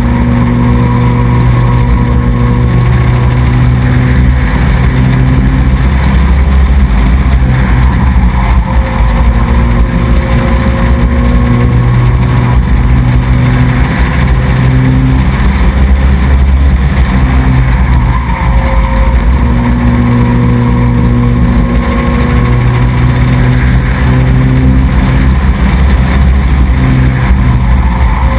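Race truck engine running hard and loud, its pitch easing off and picking up again every few seconds as the throttle comes off and back on.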